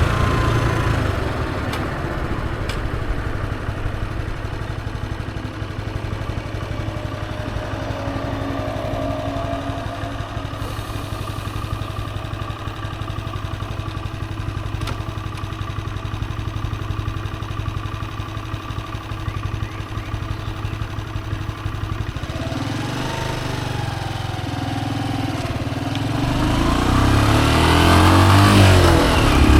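Honda CG125's single-cylinder four-stroke engine dropping in revs at the start, then running steadily at low revs for about twenty seconds. Near the end the revs climb and the engine gets louder as the bike accelerates.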